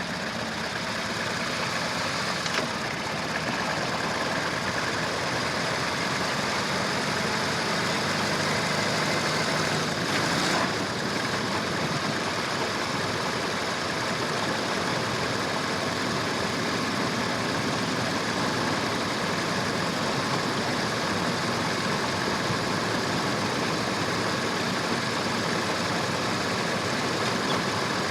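A motor vehicle's engine running steadily under a constant hiss of noise, with a brief swell about ten seconds in.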